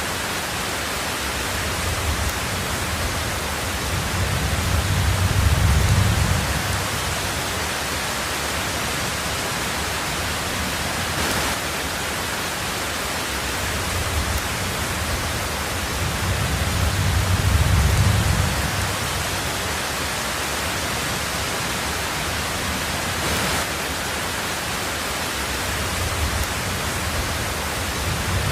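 Heavy rain falling steadily on a tin roof, an even hiss, with a low rumble of thunder swelling and fading about every twelve seconds: twice, and again starting near the end.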